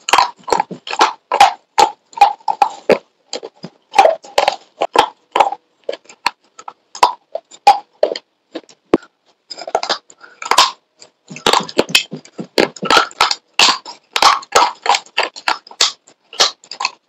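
Slate chips crunching between the teeth as pieces are bitten off and chewed: sharp brittle crunches several a second, thinning out for a few seconds in the middle, then coming thick again.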